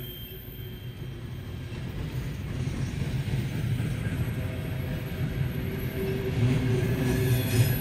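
Freight train rolling past, its wheels rumbling steadily on the rails and growing louder.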